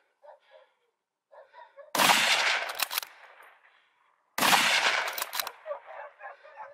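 Two gunshots from a hunter's gun at a wild boar, about two and a half seconds apart. Each is a sharp report that rings out in a fading echo.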